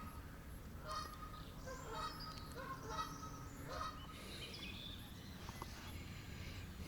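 Birds calling: four short, repeated calls about a second apart, with fainter higher chirps in the background.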